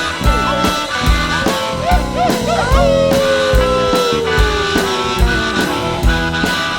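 Blues band playing live, an instrumental passage: a steady drum beat under a lead instrument that plays short bent notes, then holds one long note that slides slowly down in pitch.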